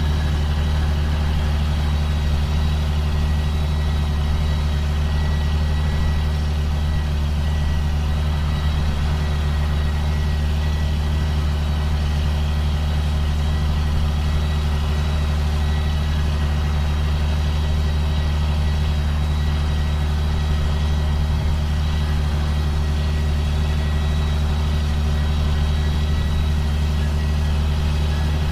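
A 2005 John Deere self-propelled sprayer's diesel engine runs at a steady pitch, with a thin steady whine above the drone.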